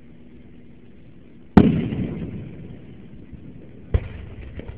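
Aerial firework shells bursting: a loud boom about a second and a half in that rumbles away over about a second, then a second, smaller bang near the end followed by a few faint pops.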